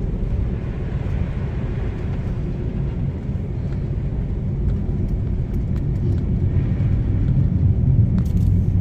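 Steady low rumble of a car driving on a snowy road, engine and tyre noise heard from inside the cabin.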